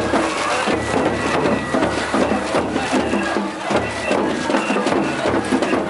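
Japanese festival float music: drums struck in a running rhythm with a high steady flute note, over the voices of a crowd.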